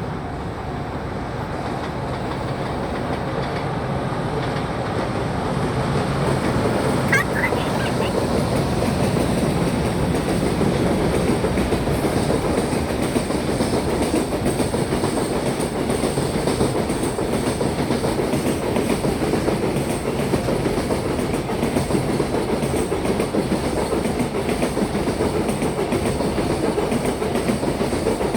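Freight train, hauled by an EH500 'Kintaro' electric locomotive, passing close by: its wagon wheels clatter steadily over the rail joints. The sound builds over the first several seconds as the train arrives, then holds loud and even as the wagons roll past.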